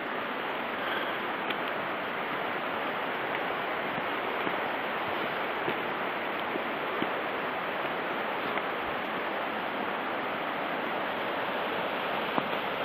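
Steady rushing of a mountain stream, an even hiss of running water.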